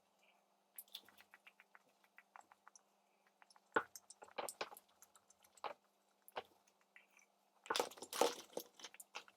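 Faint eating sounds of someone working through chicken nuggets: scattered small clicks and crackles, with a louder cluster about eight seconds in.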